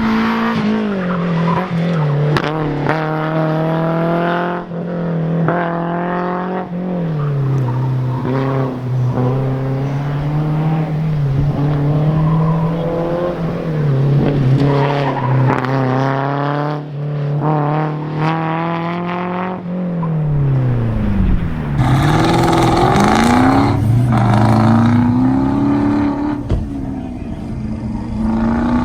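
Muscle car engine on an autocross run, its revs repeatedly climbing and dropping as the driver accelerates and lifts between cones. About three-quarters through the revs fall sharply and climb again, with tyres squealing for a few seconds.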